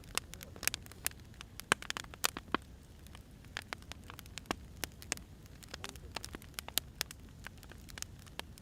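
Burning firewood crackling: irregular sharp crackles over a low steady rumble.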